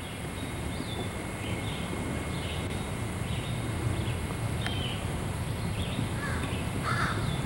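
Birds calling: short calls repeating about every half second over a steady low rumble.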